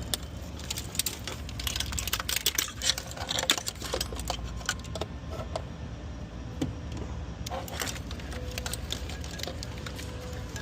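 Light clicking and rattling as the engine's wiring harness and its plastic connectors are handled and plugged in, busiest in the first few seconds and then sparser. A steady low hum runs behind it.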